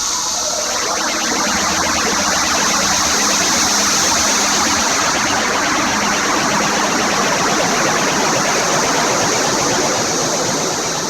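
Electronic ambient music: a dense, grainy, rapidly flickering noise texture swells in about a second in. Underneath it runs a steady high-pitched chorus of recorded cicadas.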